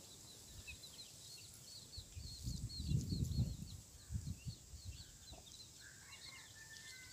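Birds chirping in quick, repeated high calls, with a short low rumble about two and a half seconds in and a few thinner whistled notes near the end.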